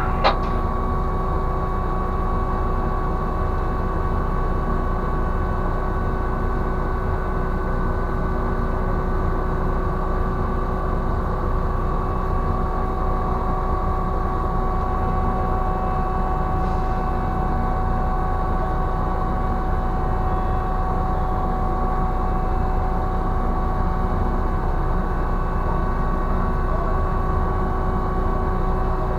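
Ship's deck crane machinery running with a steady, unchanging hum and a few fixed tones while the crane slews a yacht slowly. There is a single short click right at the start.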